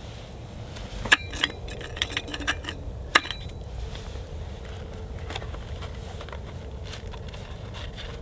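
Clicks and taps of a dessert container and spoon being handled, with two sharper clicks about one and three seconds in, over a steady low hum.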